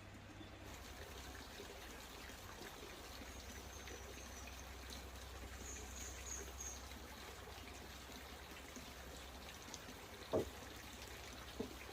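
Faint trickling water, with a thump about ten seconds in and a lighter one just before the end.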